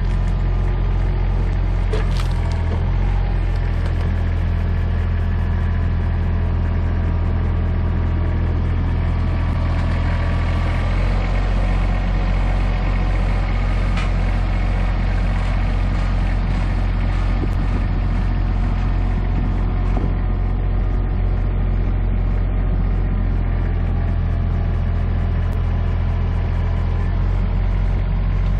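Tractor engine running steadily, its note shifting about a third of the way in and again near the end, with a few sharp cracks of wood as the grapple handles brush and logs.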